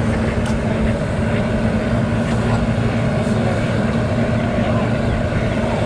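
The motor vessel's engine running steadily under way, a constant low drone with a steady hum.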